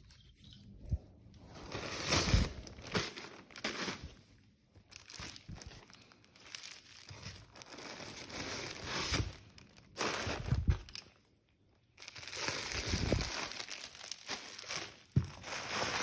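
Parcel packaging crinkling and rustling in irregular bursts as it is handled and unwrapped, with a brief pause about eleven seconds in.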